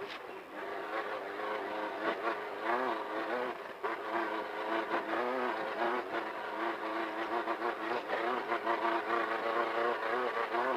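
Off-road race car's engine running hard, its pitch rising and falling as the throttle is worked, with a brief dip about four seconds in.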